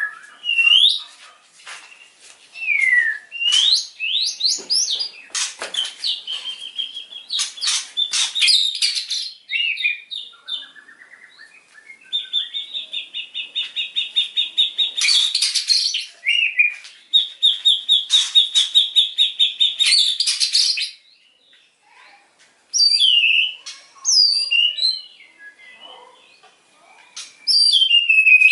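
White-rumped shama singing a loud, varied song of whistles, slurred glides and sharp clicks, with two long, fast runs of repeated notes in the middle. These are the rapid bursts that bird keepers call "tembakan", the sign of a bird in full song.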